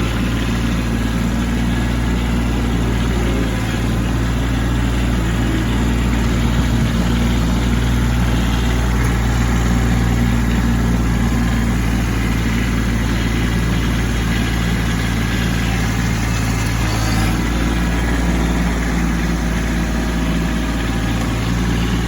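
Kubota B2601 compact tractor's three-cylinder diesel engine running steadily.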